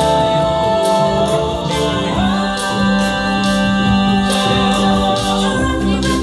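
A vocal group singing, several voices holding sustained chords together over a steady beat. The chord changes about two seconds in and again near the end.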